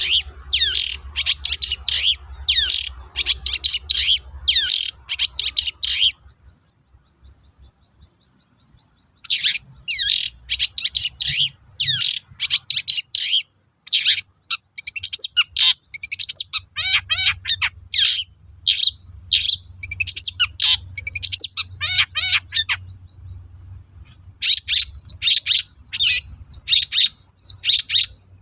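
Long-tailed shrike singing a fast, chattering string of short, sharp notes, many falling in pitch. The song breaks off for about three seconds near the start and pauses briefly again near the end.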